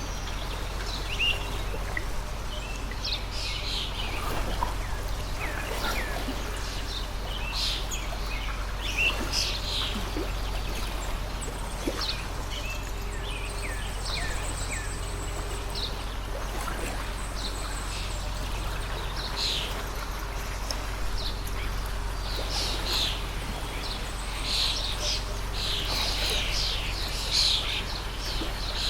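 Small birds chirping repeatedly over the steady rush of a flowing stream, the chirps growing busier near the end, with a low steady hum underneath.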